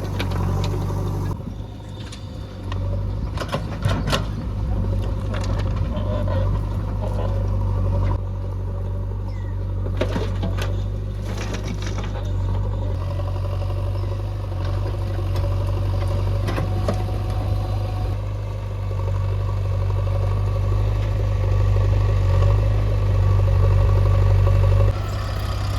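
Heavy diesel engine running steadily, with scattered knocks and clatters over it.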